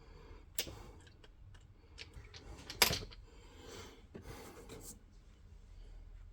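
Hand work on a boiler's plumbing parts: a series of small metallic clicks and clinks of tools and fittings being handled, with one sharp clack about three seconds in and some scraping shortly after.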